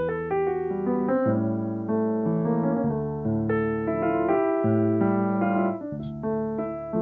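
Solo piano played live: a melody of struck notes over held chords in the low and middle register.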